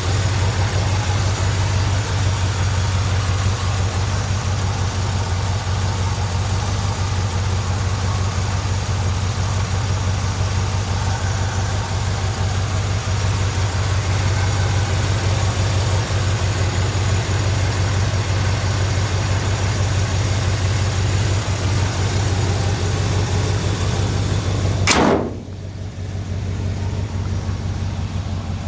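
1969 Chevrolet C30 one-ton truck engine idling steadily. About 25 seconds in comes a single sharp click, after which the hiss drops away and the idle sounds duller and a little quieter.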